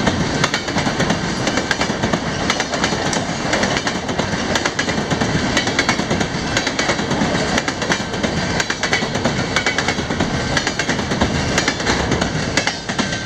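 Freight train rolling past at speed: a steady rumble of steel wheels on rail, with rapid, irregular clicking of the wheels over rail joints.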